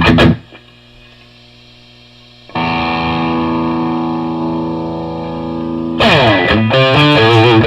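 Electric guitar with humbucking pickups through a high-gain tube amp tone. A distorted chord is cut off about half a second in, leaving a faint steady hum. A single chord then rings out for about three seconds and slowly fades, and fast distorted riffing follows near the end.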